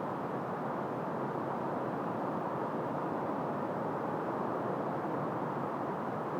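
Steady wind, an even, muffled rushing noise with little high end and no gusts or swells.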